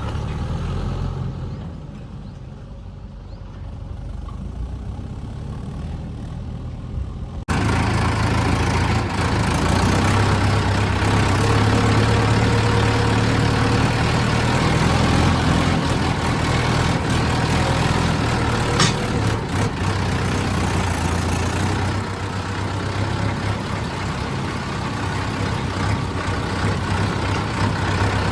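Heavy diesel engine of earth-moving machinery running steadily with a deep hum. About seven seconds in the sound jumps abruptly louder, and there is one sharp click near two-thirds of the way through.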